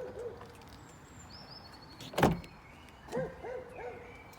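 A pickup's door latch releasing with a single sharp clunk about two seconds in as the door is opened. About a second later a dog barks three or four times.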